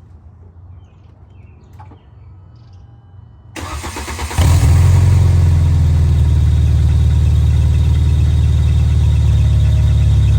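A 1996 VW Golf MKIII is started: about three and a half seconds in, the starter cranks briefly, the engine catches and settles into a loud, steady idle. The exhaust is holed beyond patching, which makes it loud.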